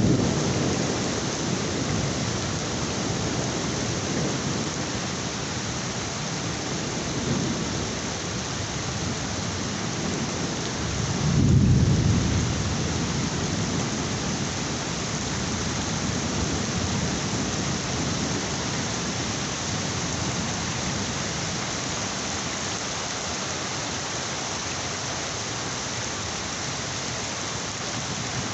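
Heavy rain falling steadily, with thunder rumbling low at the start and again about seven seconds in. A louder roll of thunder swells and fades about twelve seconds in.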